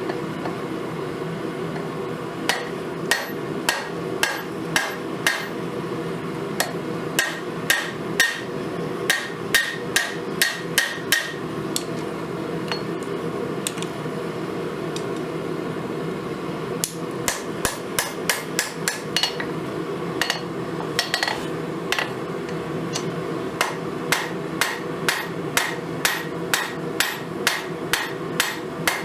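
Hand hammer striking spring steel on an anvil during forging: runs of sharp, ringing blows about two a second, broken by a few short pauses, over a steady low hum.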